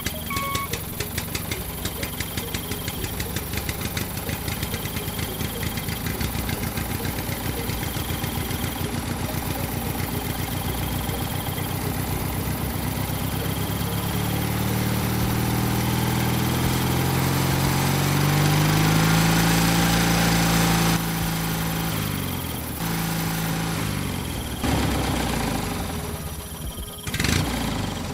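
Small engine running with a fast, even firing beat, then revving up through the middle and dropping back in steps near the end, with a sharp clack just before the end.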